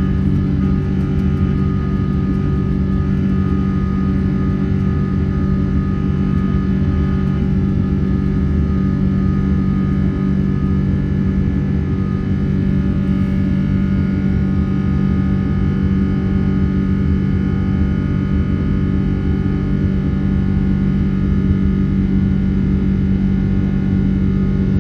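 Rolls-Royce Trent 800 turbofan engines of a Boeing 777-300 heard from inside the passenger cabin, running steadily with a loud drone and several steady tones laid over it.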